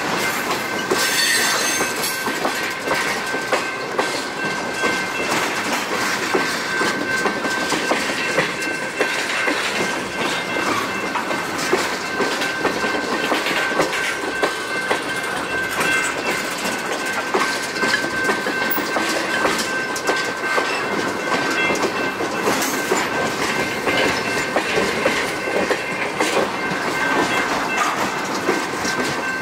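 Tank cars of a freight train rolling past close by: steel wheels clacking over the rail joints with a steady rumble. A thin, steady high whine runs over it.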